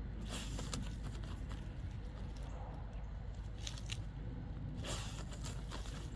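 Dog digging in soft dirt while hunting moles: short bursts of scratching and crunching as it paws and noses at the ground, a few of them louder, against a steady low rumble.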